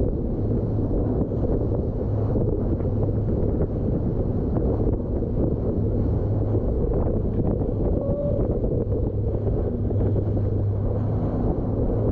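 Tour boat's engine running steadily, with wind buffeting the microphone.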